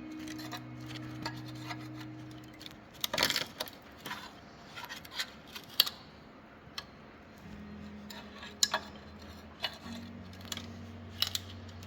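Metal tools and parts clinking and tapping in scattered strokes, the loudest cluster about three seconds in, over soft background music with long held low notes.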